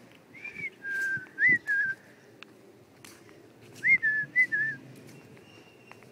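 Pet parrot whistling short clear notes, some sliding up and falling back, in two quick phrases of about four notes each: one near the start and one about four seconds in.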